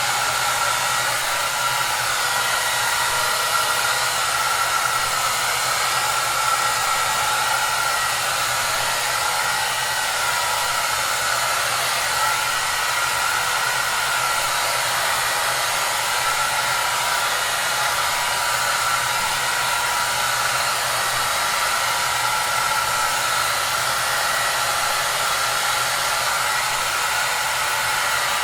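Electric hair dryer running continuously: a steady rushing of blown air with a faint, constant whine and a low motor hum.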